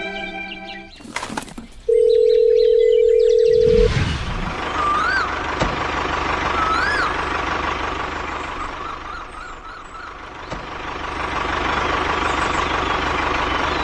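A steady electronic beep lasting about two seconds, then a steady outdoor hum with a few bird chirps.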